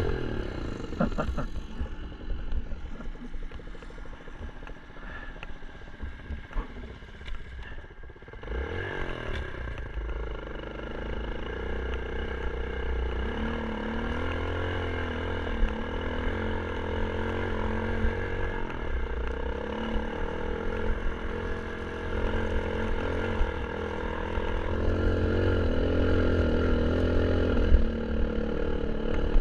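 Kawasaki KLX 150 dirt bike's single-cylinder four-stroke engine running while ridden. It is low and quiet for the first several seconds, picks up from about eight seconds in, and the pitch then rises and falls as the throttle is worked.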